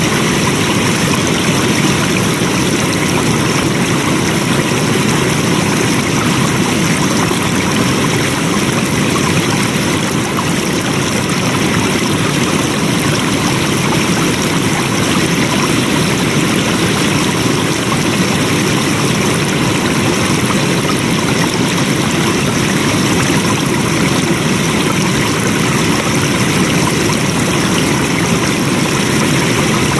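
Flowing water: a stream running with a steady, unbroken rush.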